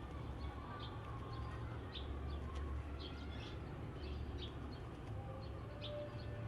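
Oriental magpie-robin giving short, scattered high chirps over a steady low rumble. A faint steady tone comes in near the end.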